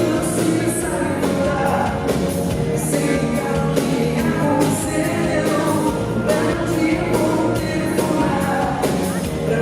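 Live pop-rock band playing a song with a woman singing lead vocals over a steady drum beat with cymbals.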